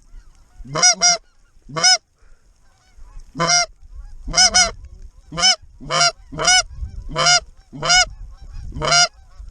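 Greater white-fronted geese (specklebellies) calling: high, yelping calls, many in quick two-note pairs, repeated about once a second, over a low wind rumble.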